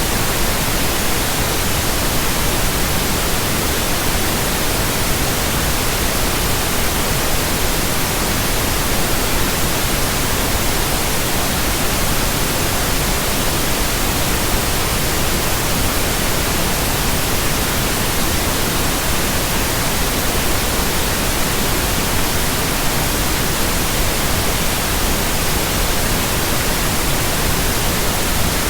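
Steady pink noise: an even, unchanging hiss spread from deep to high pitches.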